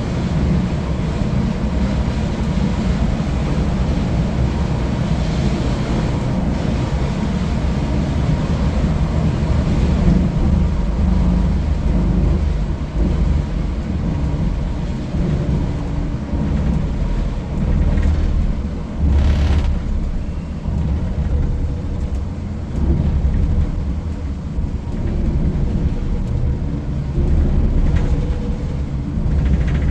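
Volvo 9600 coach's Volvo B8R diesel engine running on the move: a steady, heavy low rumble mixed with road noise. A brief burst of noise with a low thud comes about two-thirds of the way through.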